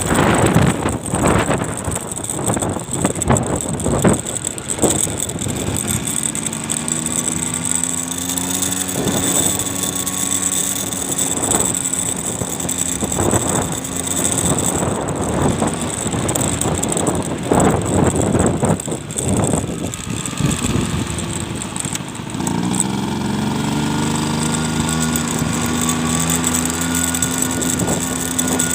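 A vehicle engine under way, its pitch rising as it speeds up about six seconds in and again about 22 seconds in, then holding steady. Gusty wind buffets the microphone throughout.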